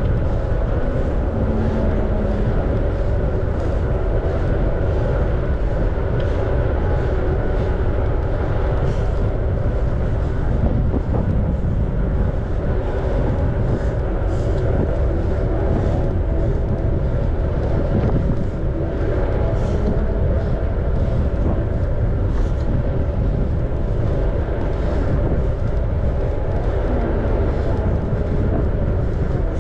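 Steady rumble of wind on the microphone and rolling noise from a bicycle riding along a path, with a faint steady hum.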